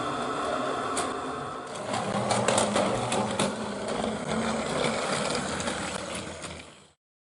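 Plarail toy train's small battery motor whirring as it runs, with quick irregular clicks of the wheels over the plastic track joints; the sound cuts off suddenly near the end.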